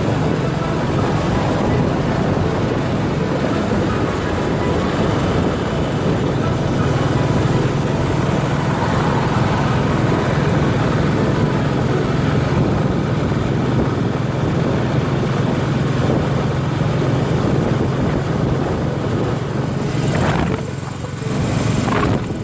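Motorcycle running steadily while being ridden, a steady low engine hum under a rushing noise; the sound dips briefly near the end.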